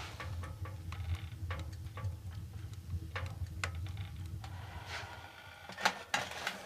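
Irregular light clicks and knocks over a low steady hum, with two louder clicks close together near the end.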